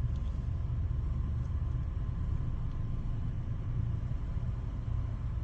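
Ryko Softgloss MAXX 5 soft-touch automatic car wash running, a steady low rumble with a faint steady tone above it.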